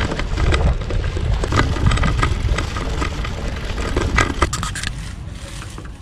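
Low wind and road rumble on the microphone of a moving bicycle, with scattered clicks and rattles, dying down near the end.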